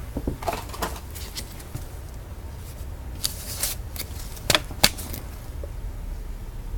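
Trading cards and pack wrappers being handled: a few sharp clicks and short rustles of card stock and plastic, the loudest two clicks close together about halfway through, over a low steady hum.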